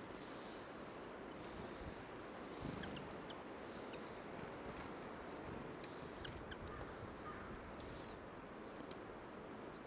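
Black-capped chickadees giving many short, high, thin call notes in quick, irregular succession.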